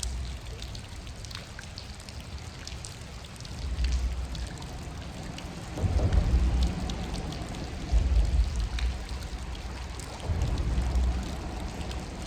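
Hard rain falling, with many sharp drops ticking close by. Low rumbles swell and fade every couple of seconds.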